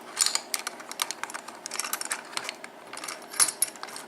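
Irregular light metallic clicks and scrapes of lockpicking tools being worked into the keyway of an ABUS 7240 padlock, with one louder click about three and a half seconds in.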